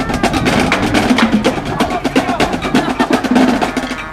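A band playing, carried by rapid snare drumming with steady held notes over it; the drumming eases off near the end.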